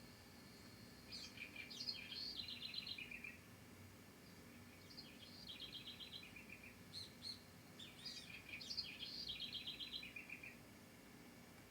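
A songbird singing three phrases. Each phrase opens with a few high notes, then runs through fast-repeated notes that step down in pitch.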